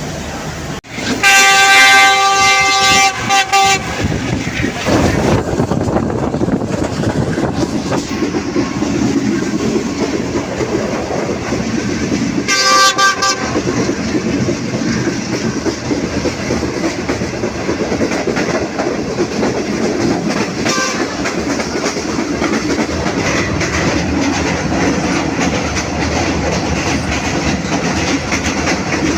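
A train horn sounds one long multi-tone blast, lasting nearly three seconds from about a second in, then a short second blast about twelve seconds in. Between and after the blasts there is the steady running noise of a passenger train moving along the rails.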